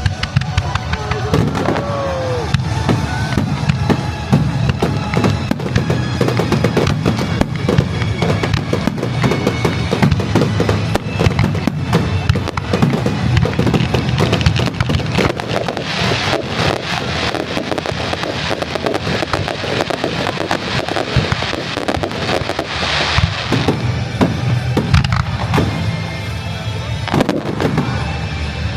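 Kagiya aerial fireworks going off in a rapid, continuous barrage of shell bursts and crackling, with a rising whistle from a shell about two seconds in.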